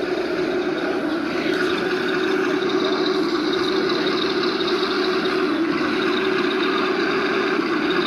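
Model train running along the layout track, a steady hum.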